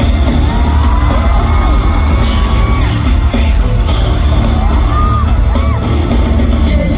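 Live pop music played loud through a concert sound system, with heavy bass, a singing voice and an audience yelling.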